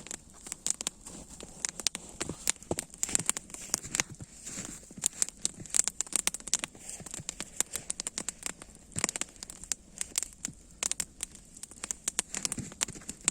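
Dense, irregular crackling and snapping: many sharp clicks a second, over a faint steady hiss.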